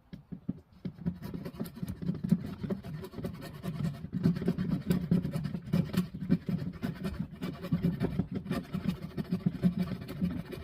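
Rapid, irregular scratching and scraping, a dense run of small rasping strokes.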